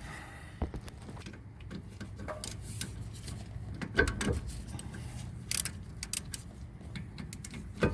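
Scattered metal clicks and knocks of hand tools being fitted to the rear brake caliper bolts, with a quick run of ratchet clicks starting right at the end.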